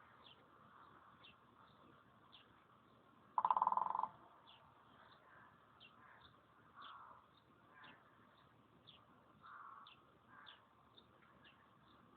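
A woodpecker drumming on a hollow plastic lamp globe: one fast roll lasting under a second, about three and a half seconds in, which the globe turns into a loud, pitched ring. Small birds chirp faintly throughout.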